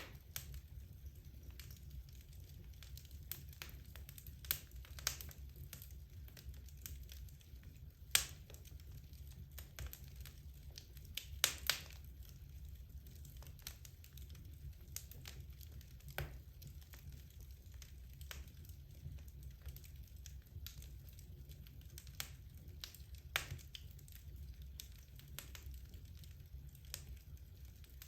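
Wood logs burning in a fireplace: irregular sharp crackles and pops, a couple of louder snaps about 8 and 11 seconds in, over a faint low rumble of the fire.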